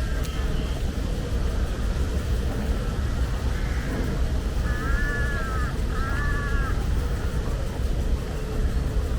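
A crow caws three times, the last two calls about a second apart and the loudest, over a steady low rumble.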